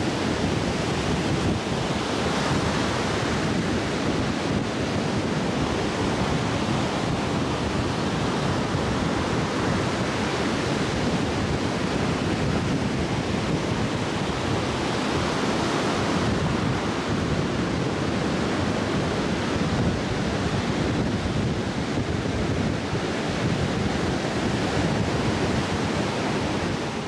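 Steady rushing wind noise on the microphone, an even roar with no breaks or distinct events.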